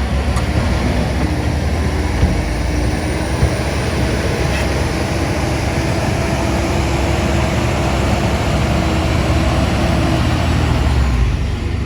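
Heavy diesel engine of earthmoving equipment running steadily with a deep rumble, easing off slightly near the end.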